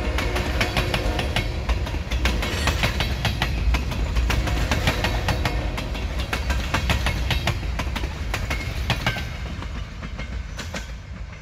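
Freight train cars rolling past, steel wheels clicking and clattering over the rail joints over a low rumble. The sound eases off near the end.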